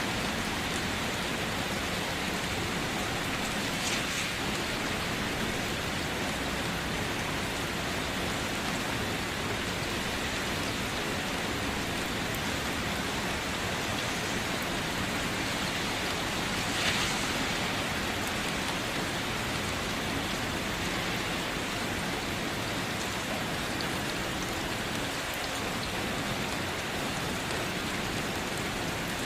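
Steady rain falling and pattering on surfaces, with a couple of slightly louder drop hits, one about 4 seconds in and one about 17 seconds in.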